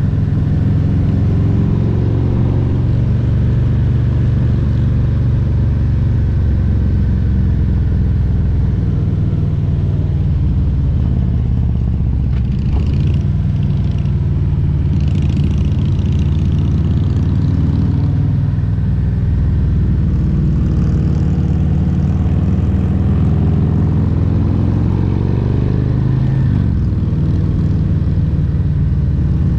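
Harley-Davidson Road Glide Special's Milwaukee-Eight 114 V-twin engine running under way, its note rising and falling a little with the throttle. A light hiss comes in around the middle.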